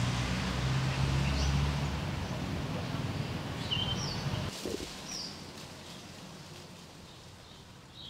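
A few short, high bird calls over a steady low hum; the hum drops away about four and a half seconds in.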